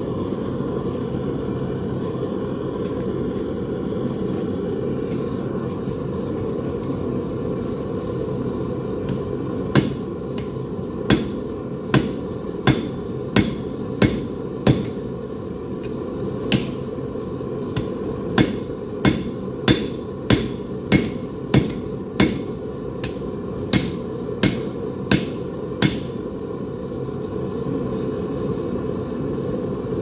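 A blacksmith's hammer striking hot metal on an anvil: about twenty sharp blows in short runs, starting about ten seconds in and stopping a few seconds before the end. Under them is the steady roar of a propane forge's burner.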